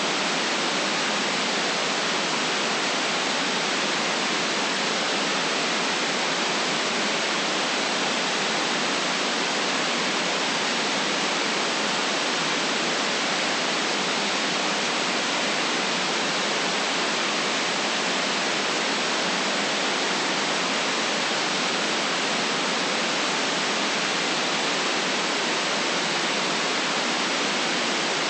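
Steady, unchanging white noise: an even hiss with nothing else in it.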